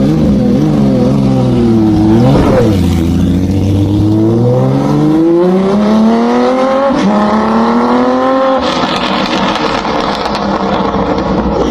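Honda CBX's air-cooled 1047 cc inline six-cylinder engine pulling hard, its pitch climbing, dropping sharply about two and a half seconds in, then climbing steadily for several seconds. Near the end it goes off the throttle into a rougher, noisier sound.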